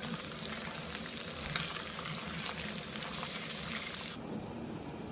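Potatoes, onion and green pepper sizzling and crackling in hot oil in a pan, just added to stir-fried pork. The high hiss of the sizzle drops away sharply about four seconds in.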